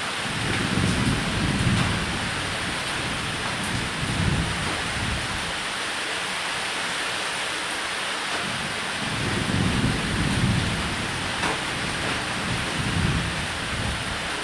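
Steady heavy rain on a roof with low rolling thunder, which swells up several times.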